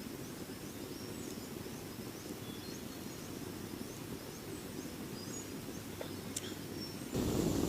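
Outdoor forest ambience: a steady low background rush with faint, high chirps repeated every half second or so. A couple of sharp clicks come near the end, and the background noise then steps up louder.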